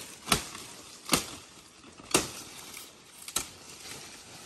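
Four sharp knocks about a second apart, each a short hard strike.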